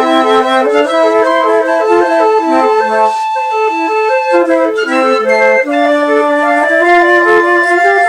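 Flute ensemble made of several overdubbed parts by one player, the lowest on an alto flute: interlocking lines moving in quick steps over lower held and shifting notes.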